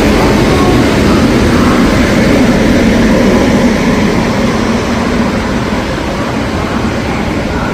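Steady, loud rumble of a train at a railway platform, easing a little after the middle.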